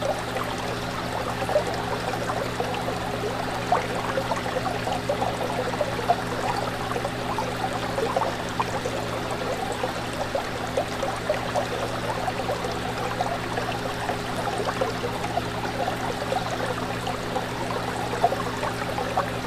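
Fish tank water trickling and bubbling steadily, over a steady low hum.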